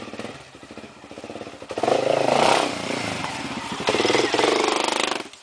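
Trail motorcycle engine revving hard twice, first about two seconds in and again about four seconds in, then dropping back near the end.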